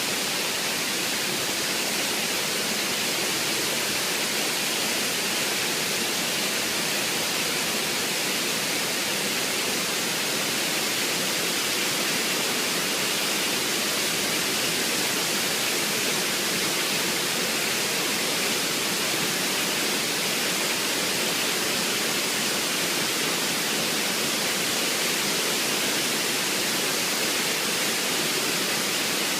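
Soco Falls waterfall: a steady, even rush of falling water that holds at one level throughout.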